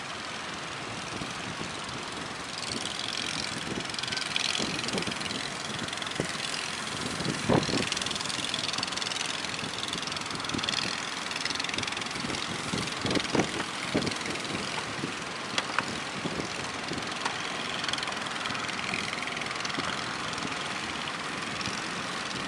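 Engines of small sepit fishing boats running over a steady rush of wind and surf, with a few sharp thumps partway through.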